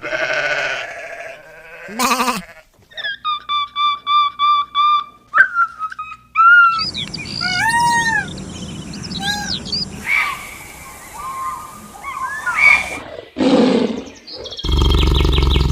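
A string of different animal calls, one after another: a pitched call, a run of about seven short whistled notes, twittering calls that rise and fall, and a loud, low, rough call near the end.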